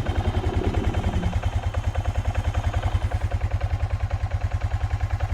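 A small engine idling steadily, with an even low pulse of about ten beats a second.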